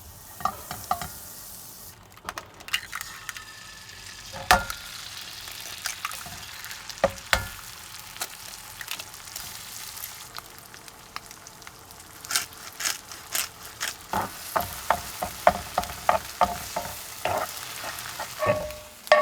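Scrambled eggs sizzling in a frying pan as they are stirred, with a steady hiss under many sharp taps and clinks of a utensil on the cookware, coming thick and fast near the end.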